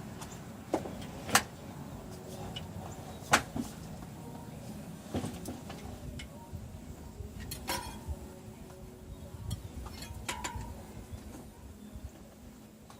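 A scattering of sharp knocks and clacks from things being handled and set in place in a pickup truck cab, the loudest two a little over a second and about three seconds in, over a low steady rumble.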